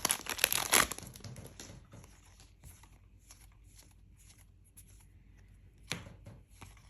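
A foil booster-pack wrapper being torn open and crinkled, loud for about the first second, then faint rustling and light ticks as the cards are handled, with one sharp click about six seconds in.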